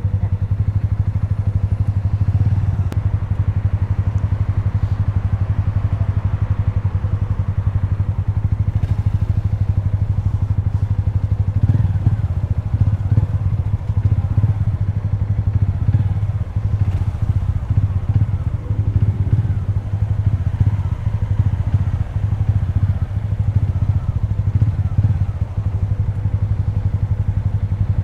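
Honda CG 160 Fan's air-cooled single-cylinder engine idling at a standstill, a steady low pulsing beat, with a second motorcycle idling alongside.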